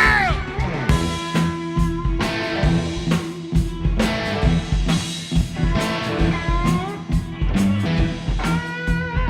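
Live rock band playing an instrumental passage: electric guitar lead with bent notes over a steady drum kit beat and a repeating bass riff. A held sung note falls away at the very start.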